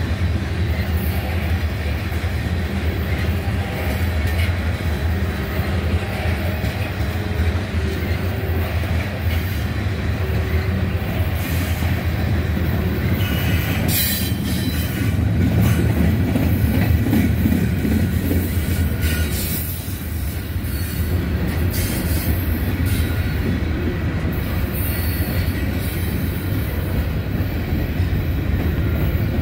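Freight cars of a mixed freight train rolling past: a steady low rumble of steel wheels on rail, with high wheel squeals coming and going, the sharpest about halfway through.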